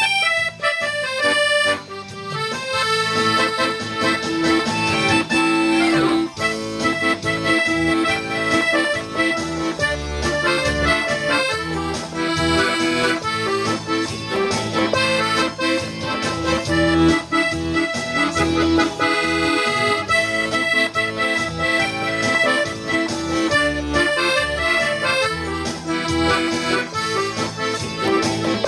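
Accordion playing a Korean trot tune: a melody over sustained chords with a steady bass line.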